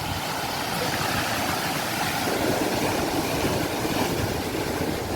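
Sea waves: a steady rushing wash of surf, swelling a little about two seconds in.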